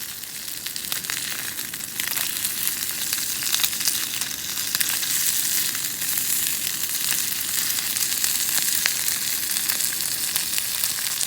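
Food frying in a pan, a steady sizzle with fine crackling spatter as the skin crisps.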